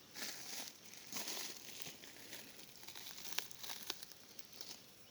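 Footsteps crunching and rustling through dry leaf litter, a swish with each step, with two sharp clicks about three and a half and four seconds in.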